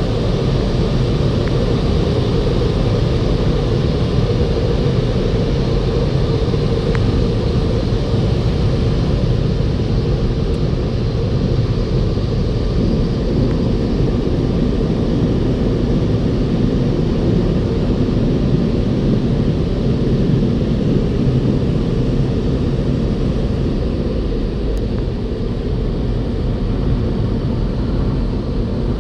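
Tunnel car wash machinery running: a steady, loud, low rumble and rush of water and equipment that doesn't let up.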